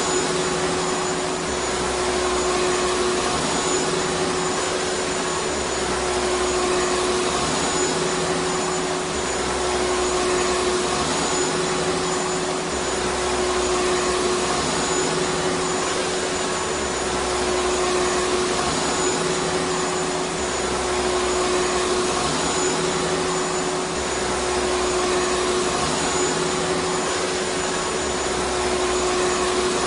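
Vacuum cleaner motor running steadily: a dense rushing hiss with a constant hum, and a low rumble that rises and falls about every two seconds.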